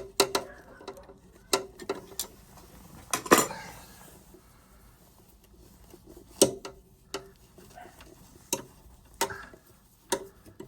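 Sharp metallic clicks and clinks of hand tools and wire connectors on the freezer compressor's relay terminals as the wires are worked loose, a dozen or so irregular strikes with a short rattle about three seconds in.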